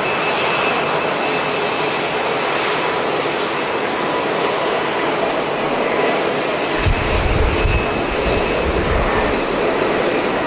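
Jet airliner engines running, a steady rushing noise with a faint high whine in it. From about seven seconds in, strong wind buffets the microphone in low rumbling gusts.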